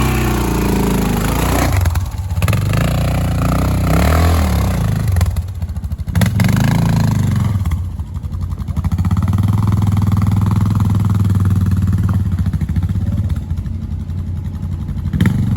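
Dual-sport motorcycle engine under way off-road, revving up and dropping back several times, then running at a steady speed for a few seconds before rising and falling again.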